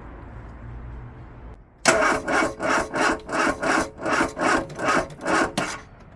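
Vauxhall Corsa D's starter motor cranking the engine in a slow, rhythmic churn, about three to four strokes a second for nearly four seconds, then stopping without the engine catching. The starter is tight and doesn't want to spin freely, so it needs replacing.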